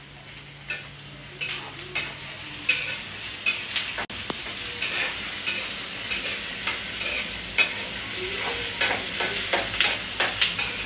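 Chopped onions, green chillies and garlic-ginger frying in oil in a metal kadai on a lowered flame, with a steady sizzle, while a metal spatula stirs and scrapes against the pan in quick, irregular strokes.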